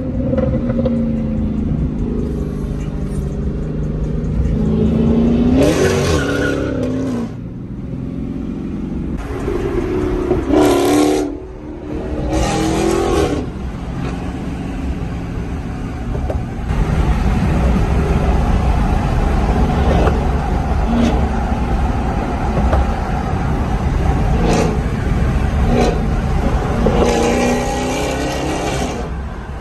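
Straight-piped Dodge Challenger Hellcat's supercharged 6.2-litre Hemi V8 running loud, with a steady low rumble broken by several hard revs that rise and fall, the biggest about six, eleven, thirteen and twenty-eight seconds in.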